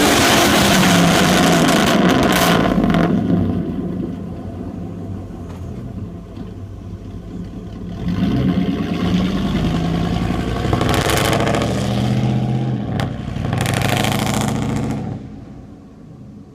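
2004 Chevy Silverado's 5.3L Vortec V8 running through straight pipes, with no catalytic converters or muffler. It is revved for a few seconds, settles to a lower idle, is revved and held again for several seconds, then drops back near the end.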